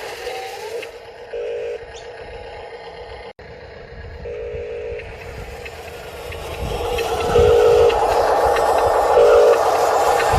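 RC construction machines working, with short electronic warning beeps from a model sound module sounding four times at irregular gaps. Their motor and working noise grows louder over the second half.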